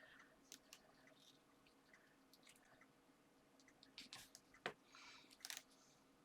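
Near silence with faint handling of paper craft pieces and glue: a few small clicks and soft rustles, a little louder about four to five and a half seconds in.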